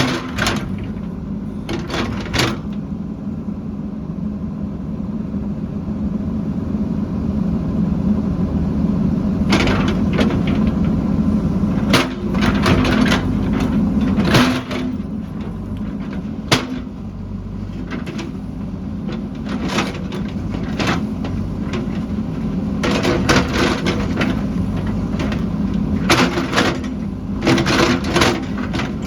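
A heavy construction machine's engine running steadily, with repeated clusters of sharp metal clanks and knocks.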